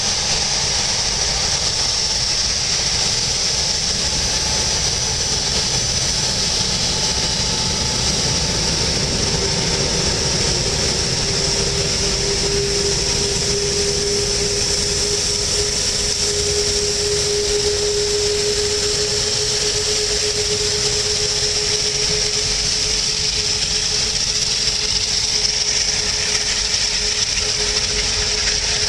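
Jet engines of an Airbus A380-841, Rolls-Royce Trent 970 turbofans, running steadily at low power: a high whine over a broad rush, with a droning tone that comes in about nine seconds in and holds.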